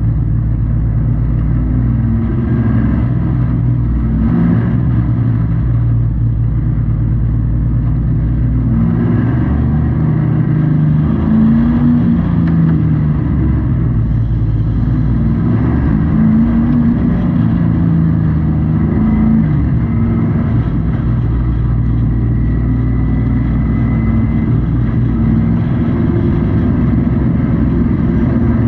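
Race truck engine heard from inside the cab at racing speed, loud and steady, its pitch falling and rising again every few seconds as the driver lifts and gets back on the throttle around the oval.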